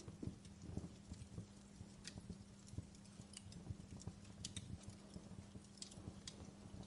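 Wood fire crackling in a fireplace: irregular sharp pops a few times a second among softer low knocks, faint, over a steady low hum.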